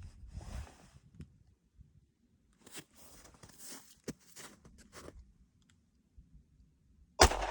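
Faint clicks and rustles of a shooter handling and aiming a handgun, then a single loud gunshot near the end, with a steel target just starting to ring from the hit.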